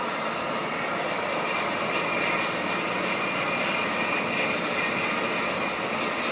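Steady engine and road noise of a moving intercity bus, heard from inside the cabin.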